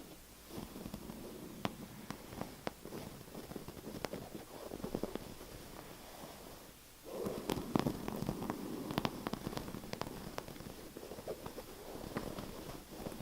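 Close-up tapping and scratching on an object: scattered sharp taps over a rough scratching noise that gets louder about halfway through.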